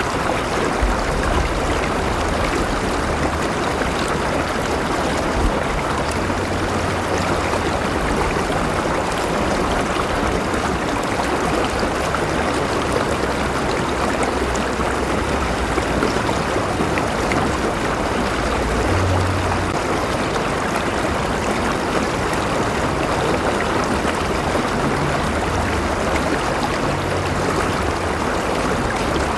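River water flowing and splashing steadily over rocks, a constant rushing with low rumble underneath.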